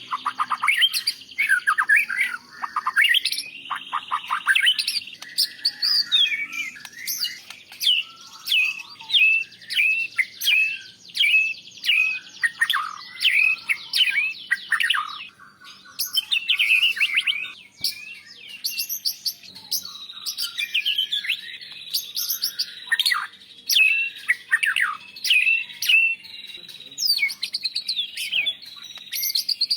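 White-rumped shama singing a long, varied song: fast runs of sharp sweeping whistled notes and trills, with short pauses between phrases. Its song is stuffed with phrases borrowed from other birds, such as canary and lovebird.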